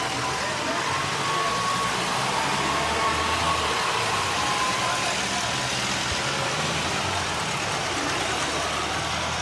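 Ford Model T race cars' four-cylinder engines running steadily, with no sharp knocks or other sudden sounds.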